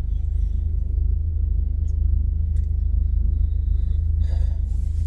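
Steady low rumble with no speech, faint short rustles or breaths near the end.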